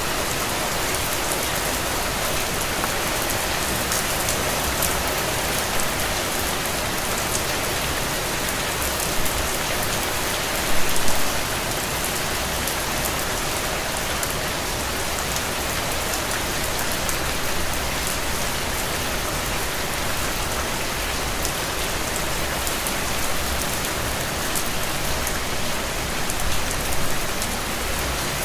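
Steady rain falling on a window, a dense even patter of drops with a few louder splashes about eleven seconds in and again near the end.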